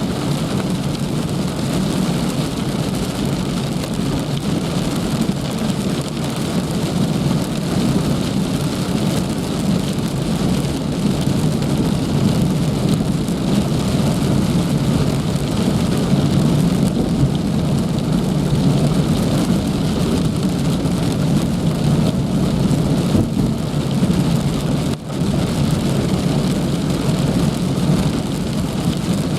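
Heavy rain falling steadily, a dense, even rush with a deep low-pitched body, with a brief drop-out about twenty-five seconds in.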